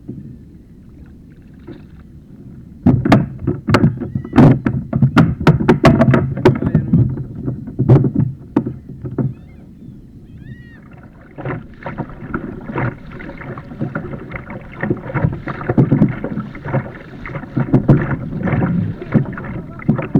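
Sea water splashing and sloshing against a fishing kayak under way, in uneven surges. There are sharp knocks from about three to nine seconds in.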